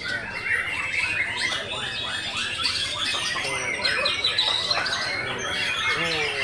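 Several caged songbirds singing at once: dense, overlapping chirps, trills and whistled phrases.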